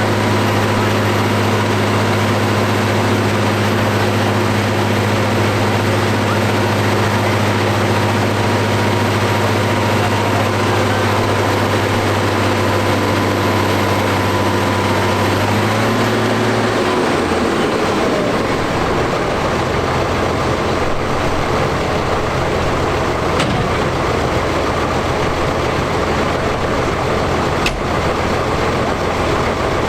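McCormick X7.670 tractor's six-cylinder diesel running at steady high revs under dynamometer test. About halfway through the revs fall away and it settles into a lower, steady run. There is one short click near the end.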